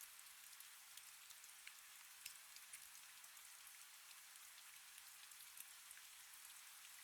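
Faint, steady rain: an even hiss with scattered sharp ticks of individual drops.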